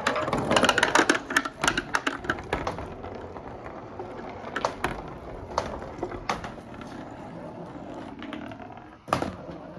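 Many marbles clattering and rolling through PVC pipes and plastic rain gutters: a dense rattle of clicks for the first few seconds that thins to scattered single clicks over a steady rushing of the run's flowing water, with one loud clatter near the end.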